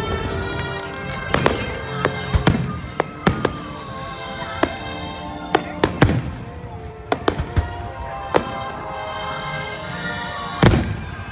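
Aerial firework shells bursting: about a dozen sharp bangs at irregular intervals, the loudest near the end, with music playing underneath.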